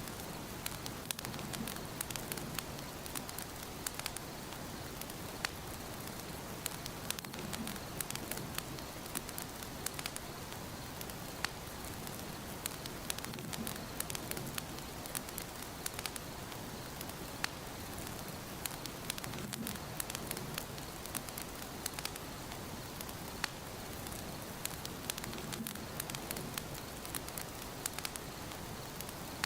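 Wood fire burning in a fireplace: a steady rush of flames with frequent sharp crackles and pops.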